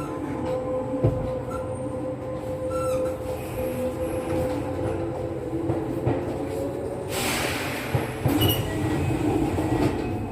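Interior running noise of a Kintetsu 9020 series electric train at the end of its run into the terminus: steady rumble with a held tone and some wheel squeal, then a loud burst of compressed-air hiss about seven seconds in as the train comes to a stop.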